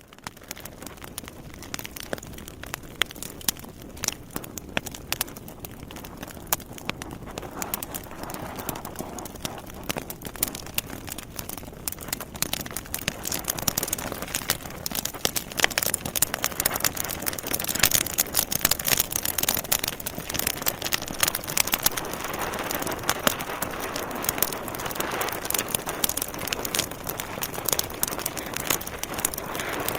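Wood fire burning in a fireplace: dense, irregular crackles and pops over a steady hiss, growing louder and busier about halfway through.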